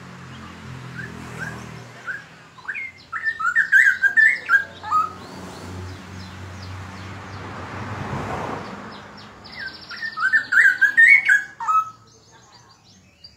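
Straw-headed bulbul singing loud, melodious warbling phrases of gliding notes in two bursts, about three seconds in and again near ten seconds in.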